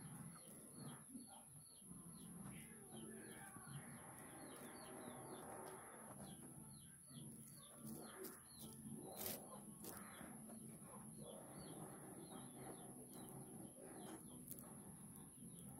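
Faint background of birds chirping, quick high chirps repeating several times a second, over a steady high whine and soft rustling from a synthetic rope being handled.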